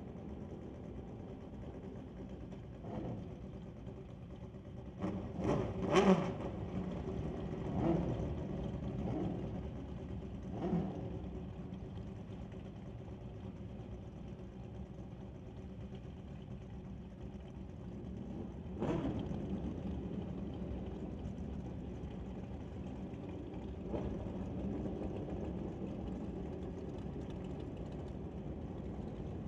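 Drag-racing motorcycle engines revving hard in several sharp blips, then accelerating away at full throttle down the strip, heard at a distance.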